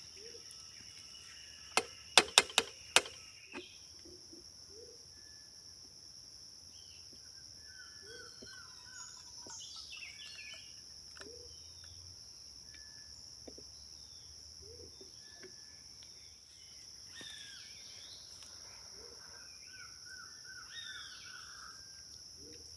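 Forest ambience: a steady high-pitched insect drone with scattered bird calls and chirps, including a rapid repeated chirping run about eight seconds in and again near the end. About two seconds in there is a quick run of five sharp knocks, the loudest sounds here.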